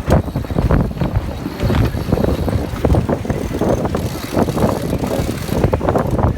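Strong wind buffeting the microphone aboard a sailing yacht: a loud, irregular low rumble with constant gusty surges.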